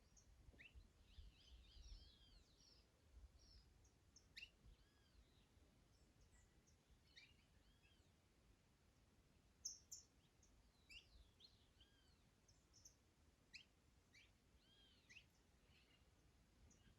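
Faint songbird chorus: several small birds chirping and twittering in short arched notes, with the sharpest, highest chirp about ten seconds in. A low wind rumble sits underneath, stronger in the first couple of seconds.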